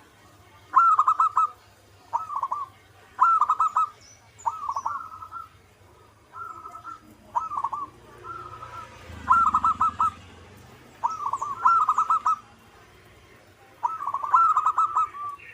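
Zebra dove (perkutut) cooing: about ten short rolling coo phrases in steady succession, each a quick run of notes, some loud and some fainter.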